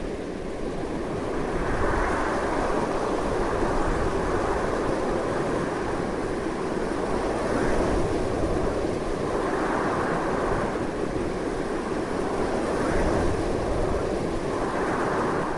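Strong wind blowing continuously, a dense steady rush that swells and eases a little every few seconds.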